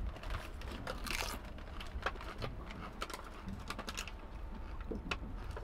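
Potato chips being crunched close to the microphone: scattered sharp crackles over a low steady rumble.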